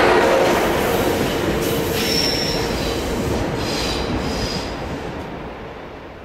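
DB class 401 ICE 1 high-speed train rolling away past the platform, its running noise fading steadily, with two brief faint high squeals about two and four seconds in.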